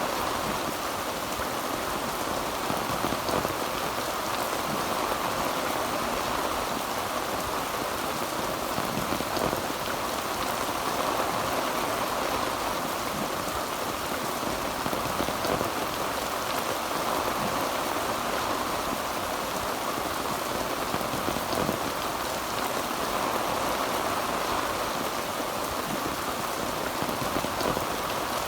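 Heavy rain falling on a tin roof: a steady, dense patter of drops with no thunder.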